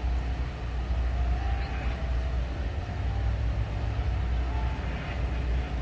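Steady low rumble of running machinery.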